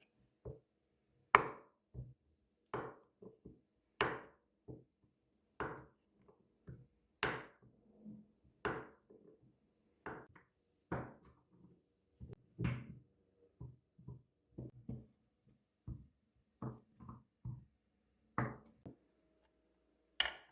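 A series of sharp wooden knocks, roughly one a second and uneven in strength, over a faint steady low hum.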